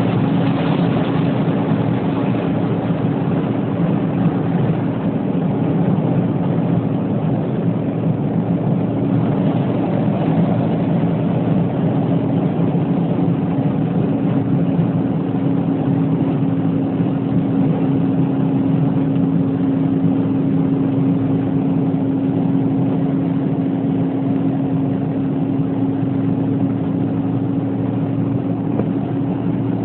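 A steady, unchanging engine hum over an even hiss, typical of a vehicle running.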